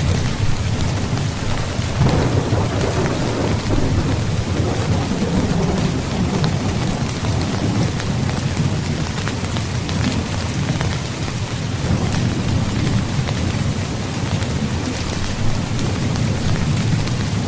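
Steady heavy rain pattering on a tent's fabric, with a low rumble underneath that swells and eases a few times.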